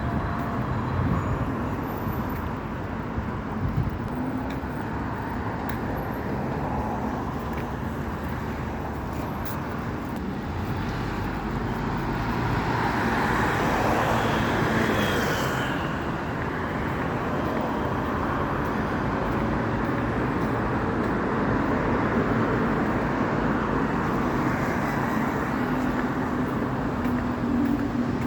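Street traffic going by: a steady hum of passing vehicles, swelling as a vehicle passes close about halfway through.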